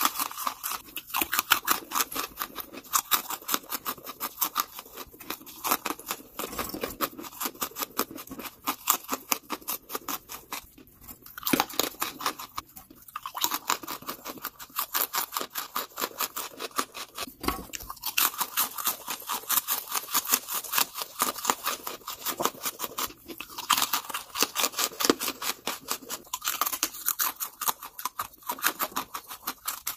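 Close-miked crunching and chewing of lumps of charcoal: a dense run of sharp crackles, several a second, broken by a few short pauses.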